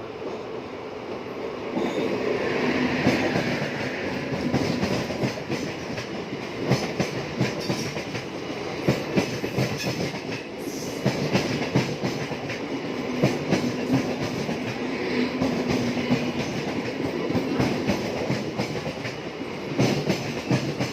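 Train running on the rails, with the wheels clicking steadily over the rail joints. It gets louder about two seconds in.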